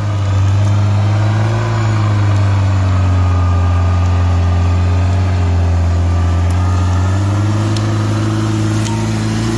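Off-road vehicle's engine running steadily at low revs, the revs rising slightly about seven seconds in.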